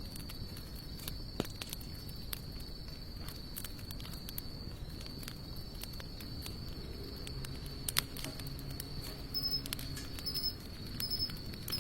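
Hardwood campfire of sawtooth oak and mixed broadleaf logs crackling, with scattered sharp pops, the loudest about eight seconds in. A steady high insect trill runs underneath, with pulsing chirps near the end.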